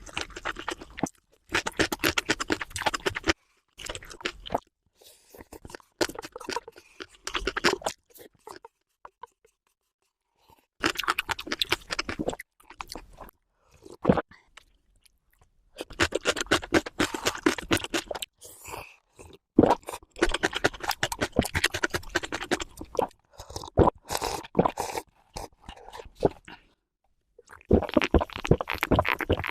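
A person crunching and chewing food close to the microphone, played back at double speed: dense crackly bites and chews come in bursts a few seconds long, broken by sudden silent gaps.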